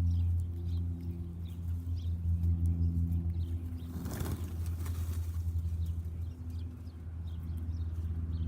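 Faint short chirps of small backyard birds over a steady low mechanical hum, with a brief rush of noise about four seconds in.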